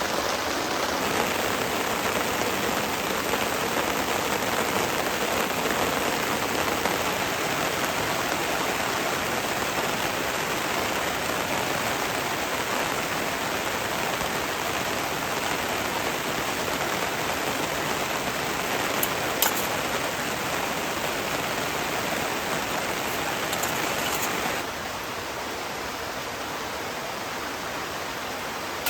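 Heavy rain falling steadily, a dense even hiss of drops. About 24 seconds in it becomes somewhat quieter.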